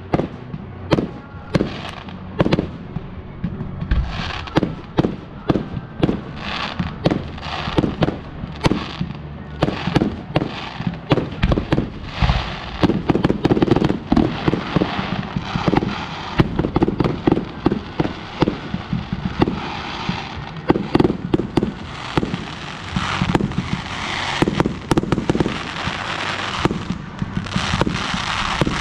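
Professional fireworks display firing continuously: a rapid, unbroken string of sharp bangs, several a second, with a crackling hiss between them that thickens in the middle and near the end.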